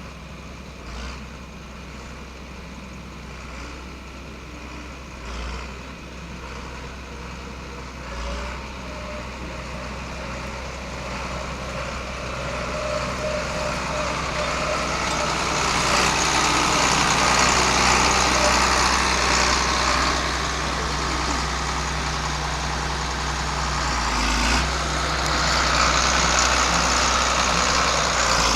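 John Deere 4640 tractor's six-cylinder diesel engine running, growing louder from about a third of the way in and staying loud, with a few dull thumps along the way.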